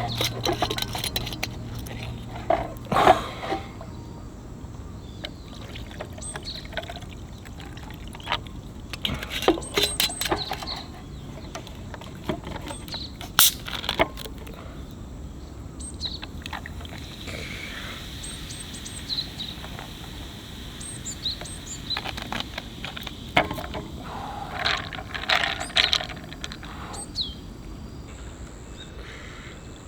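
Irregular clicks, knocks and rustles of things being handled, over a steady outdoor background. A few short high chirps come through about two-thirds of the way in.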